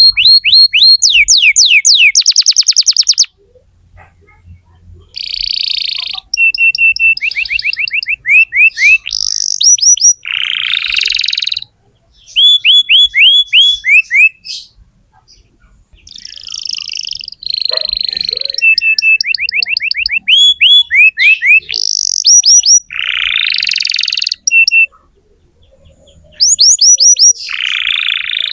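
Canary singing loud, fast trills: tours of rapidly repeated chirps, some rising and some falling in pitch, broken up by harsher buzzy notes. The song pauses briefly a few times between phrases. It is the full, prolific song of a 'gacor' canary.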